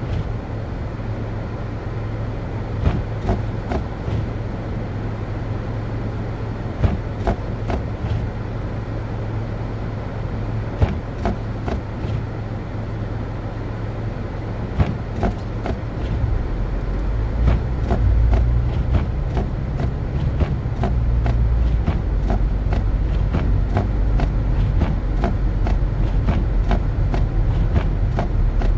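Car driving on a snow-covered road: a steady low drone of engine and tyres with frequent irregular clicks, getting louder about halfway through.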